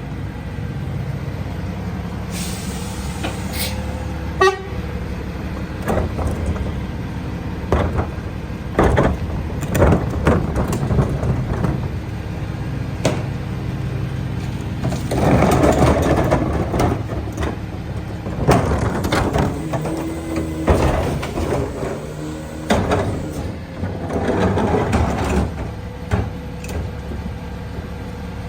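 Freightliner EconicSD McNeilus rear-loader garbage truck running steadily while recycling is loaded into its rear hopper. Repeated bangs and knocks are heard, with two longer spells of crashing, rattling noise about halfway through and near the end as loads of recyclables are tipped in.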